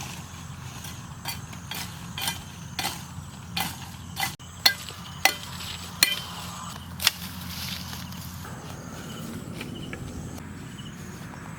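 A run of sharp knocks, about two a second, over a steady low rumble; the knocks stop about seven seconds in.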